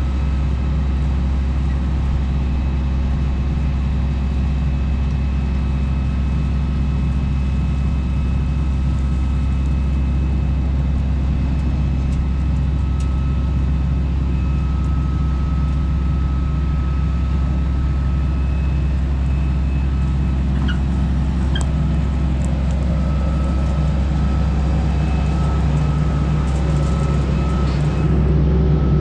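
Combine harvester's diesel engine running steadily at a constant speed, a deep even hum with a faint high whine over it.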